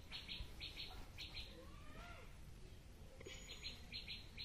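Birds chirping in short repeated chirps, about three a second, pausing midway and starting again near the end, with a faint rising-and-falling whistled call in the middle.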